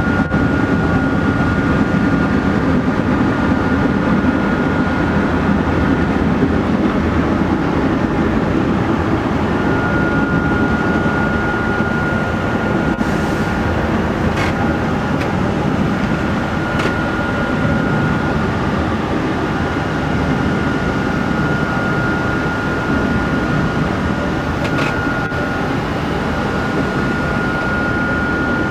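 Steady loud rumbling noise of a yacht under way, with a thin steady whine that drops out for a few seconds and a few faint clicks in the middle.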